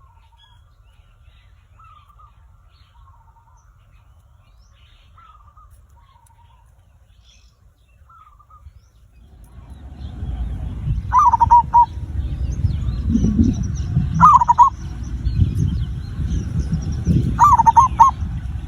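Zebra dove (perkutut) cooing in short rolling phrases every two to three seconds, faint at first and much louder from about halfway. A loud low rumble sits under the second half, along with thin high chirps from another small bird.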